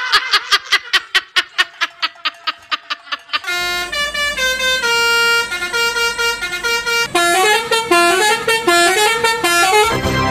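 Basuri 'telolet' multi-tone bus horn: rapid staccato honks, about six a second, then a melody of stepped horn notes, with a low hum underneath the melody.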